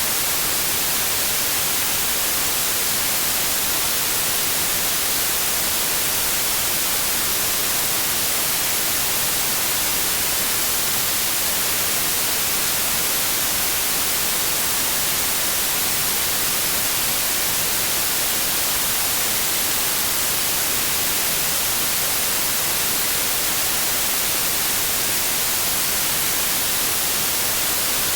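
Steady electronically generated white noise: an even, unchanging hiss with no rhythm or events.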